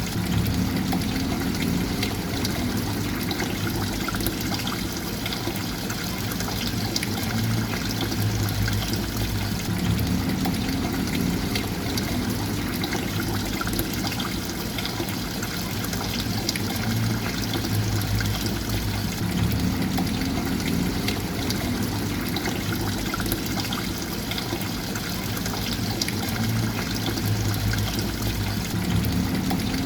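Water trickling and splashing in a steady, continuous flow.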